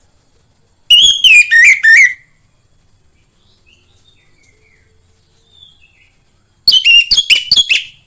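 Orange-headed thrush singing: two loud phrases about six seconds apart, each a quick run of falling whistled notes, with a faint softer call between them. A steady high-pitched hiss runs underneath.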